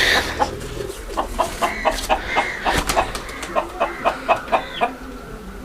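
Birds calling in a quick run of short clucking notes, about three a second.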